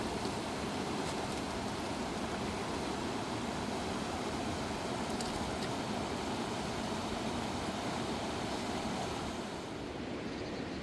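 Fast-flowing mountain river rushing over rocks, a steady wash of white-water noise that turns slightly quieter and duller near the end.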